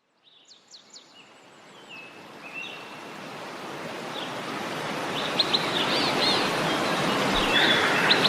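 Nature ambience of rushing water, fading in slowly, with birds chirping over it.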